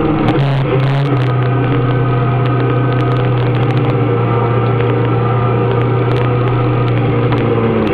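Motorcycle engine running at steady revs, heard from on the bike. It is a loud, even drone that drops a little in pitch twice in the first second and then holds one pitch, with wind and road noise underneath.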